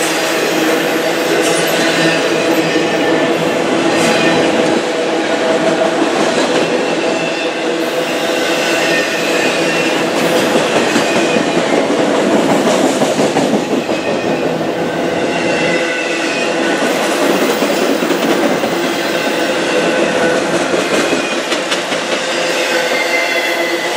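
Freight train of autorack cars rolling past at steady speed, steel wheels clattering on the rails, with a high wheel squeal that comes and goes.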